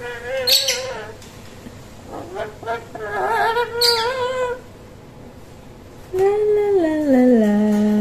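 A pet bird singing three wordless, wavering phrases, with two short shrill squawks; the last phrase steps down in pitch and ends on one long held note.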